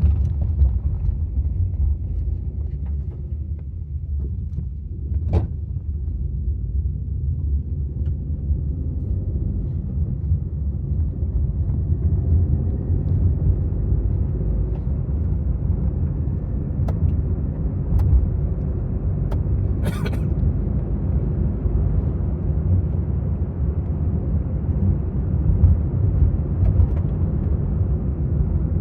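Maruti Suzuki Swift VXi being driven: a steady low rumble of engine and road noise. A brief click comes about five seconds in, and a short sharp noise about twenty seconds in.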